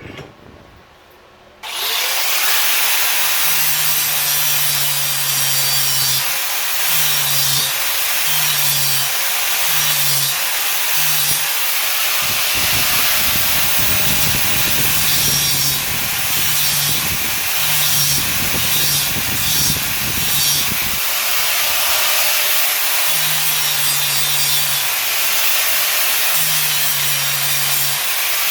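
Power tool starting suddenly about two seconds in, then running steadily under load with a harsh grinding hiss and a faint wavering whine.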